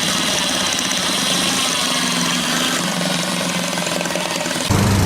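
An engine running steadily, with a louder low hum coming in near the end.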